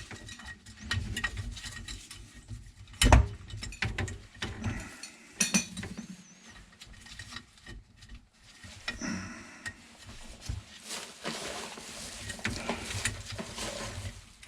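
Irregular handling noises of tools and parts: small clinks, taps and scrapes, with one louder knock about three seconds in.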